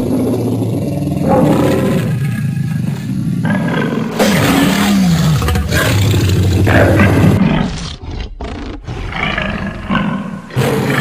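Loud roar of the cartoon lion Alex, edited into a run of spliced pieces that cut in and out abruptly, with a quieter, choppier stretch about two-thirds of the way through.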